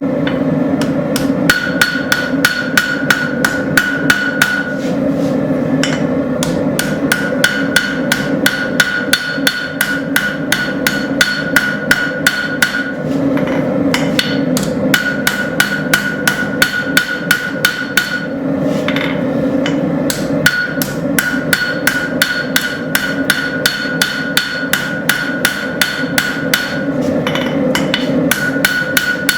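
Hand hammer striking a hot railroad spike on an anvil while putting a bevel on the blade, about three blows a second with a few brief pauses. A high ringing tone carries between the blows, over a steady low hum.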